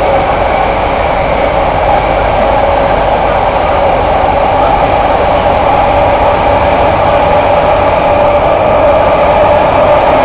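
Kawasaki & CSR Qingdao Sifang C151A train running between stations, heard from inside the car: a steady rumble of running noise with a whine held at an even pitch.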